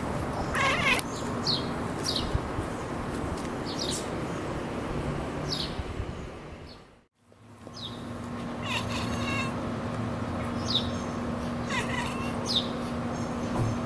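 A domestic cat chattering at birds: short, stuttering chirping calls, several times, with birds chirping in quick high notes around it. The sound drops out briefly in the middle, then picks up again with a steady low hum underneath.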